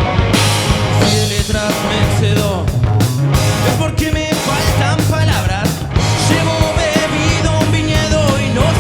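Live rock band playing, with electric guitar, bass and drums, and a voice singing over it.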